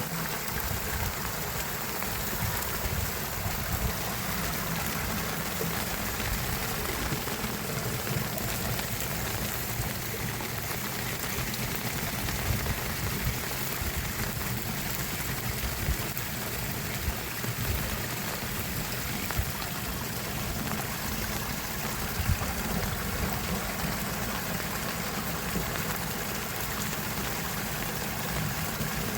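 Steady rush of a river running high after heavy rain, an even noise with a low rumble beneath it.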